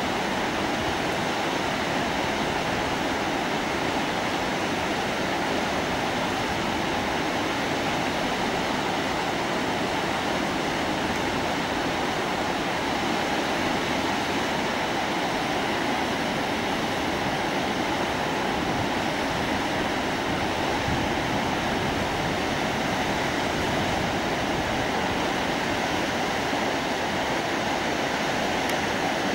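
Whitewater of a large, fast mountain river rushing steadily, an even, unbroken rush of water.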